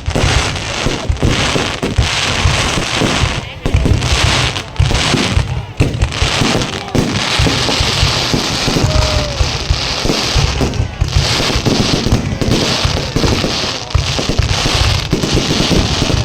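A dense fireworks barrage: rapid booms and crackling follow one another with no break.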